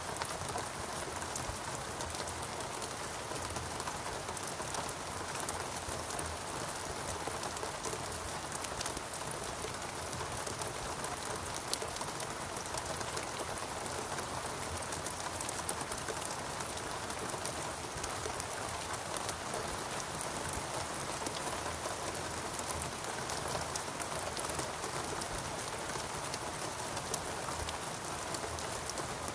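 Steady rain falling in a rainforest, an even hiss of rain with many fine drop ticks, unchanging throughout.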